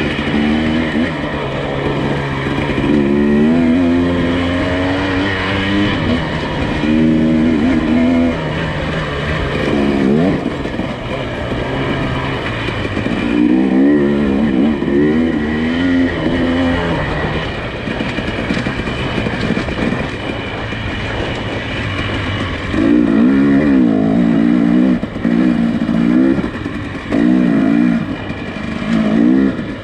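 Nissan Pathfinder engine working at low speed on a rough off-road trail, its pitch rising and falling rapidly in spells as the throttle varies over bumps, over a steady whine and rumble.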